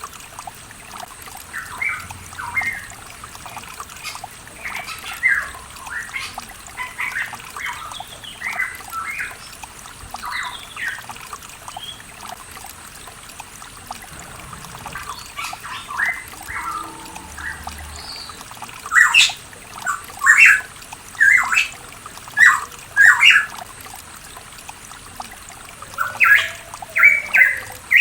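Pitohui singing, a string of short, clear whistled notes, some sliding up or down, that grow louder and come in quicker clusters in the second half. Running water trickles steadily underneath.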